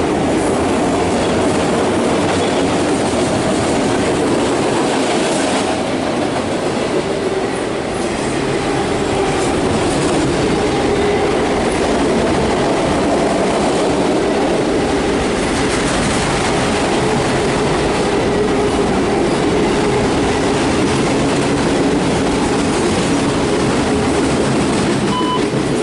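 CSX autorack freight train rolling past with a loud, steady rumble and clatter of wheels on rail.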